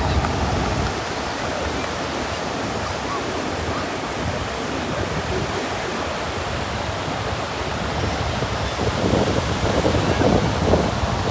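Steady wash of ocean surf with wind buffeting the microphone. The low rumble picks up near the end.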